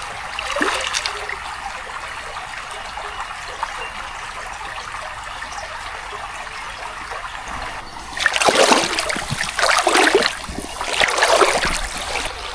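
Shallow creek water trickling steadily, with three louder surges of splashing water in the last four seconds.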